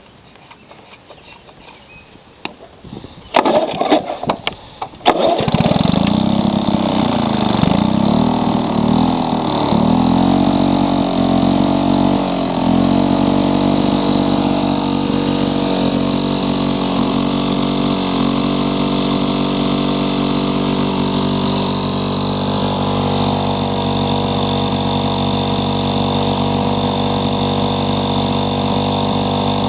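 An old Lawn-Boy push mower's two-stroke engine is pull-started about three seconds in. It catches after a couple of seconds of cord pulls, surges up and down in speed for a few seconds, then settles into a steady run.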